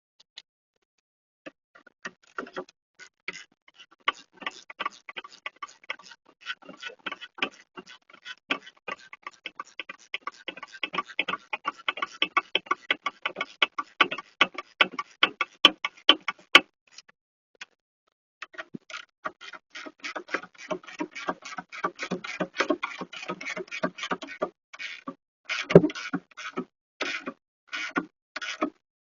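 Rapid ratchet clicking, several clicks a second, in two long runs with a short pause about 17 seconds in.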